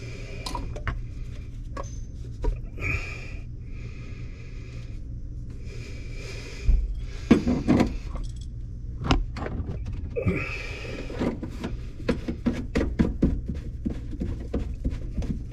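Tools and plumbing parts being handled under a kitchen sink: scattered clicks, knocks and clatters with a few scrapes, and a quick run of rattling clicks in the second half, over a steady low hum.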